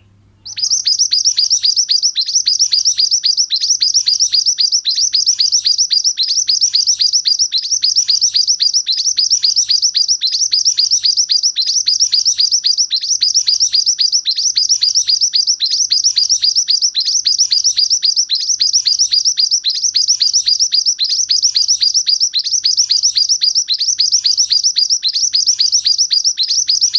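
Mantenan songbird singing gacor: a loud, unbroken run of rapid, high-pitched chirps repeated many times a second, starting about half a second in.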